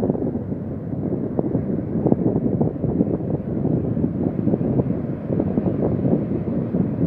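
Strong wind buffeting the microphone: a steady low rumble with no clear breaks.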